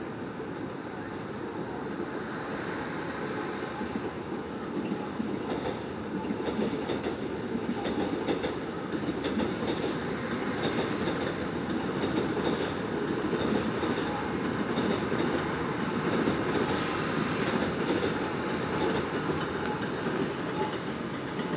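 A train running on rails with wheels clattering over the track, growing louder through the middle and easing slightly near the end.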